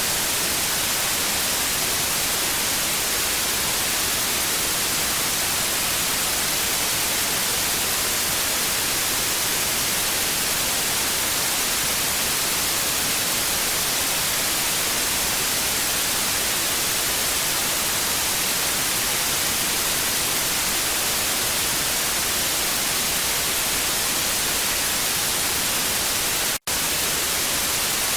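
Analogue TV static: a steady, even hiss, strongest in the high end, with one split-second dropout near the end.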